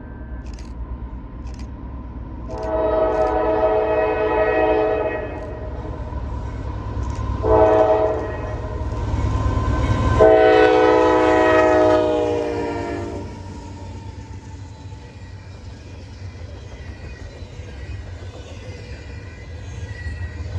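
Locomotive air horn sounding a chord in the grade-crossing pattern as a train approaches and passes: a long blast, a short one, then a long one whose pitch drops slightly as the locomotive goes by. The train's rumble underneath is loudest about ten seconds in and then fades.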